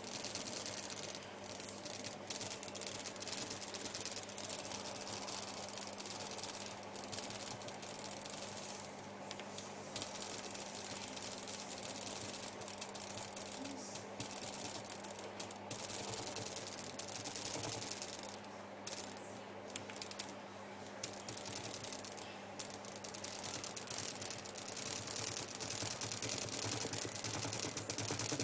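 Stuttery, crackling glitch noise played on an iPad, dense and rapidly flickering, with short breaks here and there.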